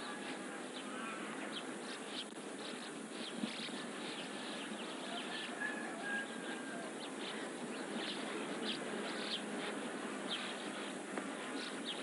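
Small birds chirping again and again, with a few short whistled notes, over a steady background hiss.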